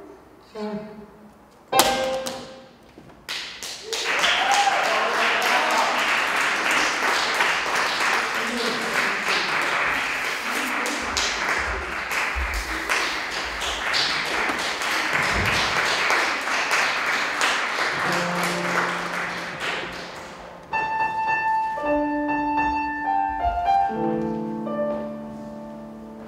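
Improvised instrumental music: a sharp strike, then a long, even rushing wash of noisy sound for about sixteen seconds, then sustained piano notes sounding one after another near the end.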